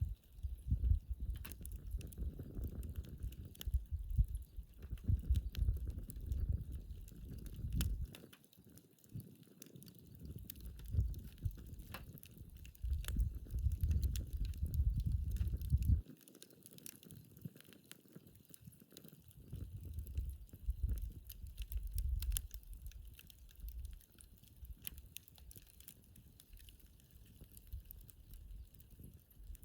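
Wood campfire in a fire pit stand, well into its burn, crackling with irregular sharp pops and snaps. A low gusty rumble comes and goes under it, cutting off abruptly about halfway through.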